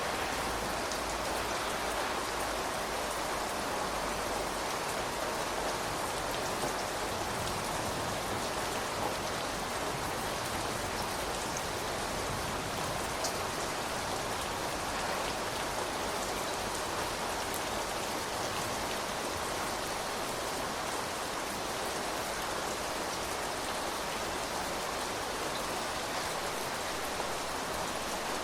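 Steady rain falling, with an occasional distinct drop ticking out of the even patter.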